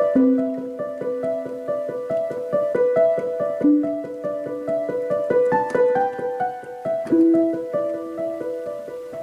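Solo piano playing a gentle piece: a quick, repeating figure of higher notes over slow held bass notes that change about every two seconds, growing softer toward the end.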